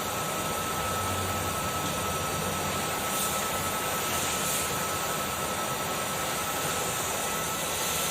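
Kärcher vacuum cleaner running steadily, a rushing of air with a constant high whine from its motor.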